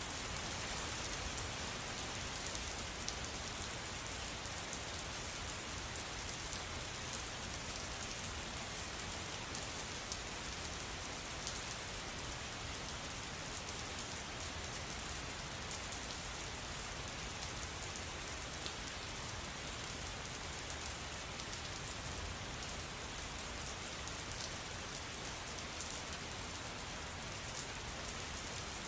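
Steady rain falling, a continuous even patter with many small drop impacts.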